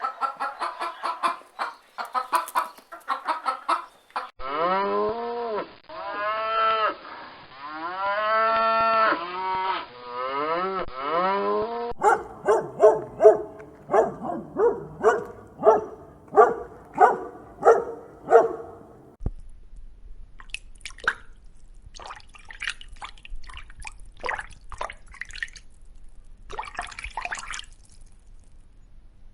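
Chickens clucking, then a cow mooing in several long moos that rise and fall in pitch. After that come a run of short, evenly repeated animal calls and quieter scattered clicks.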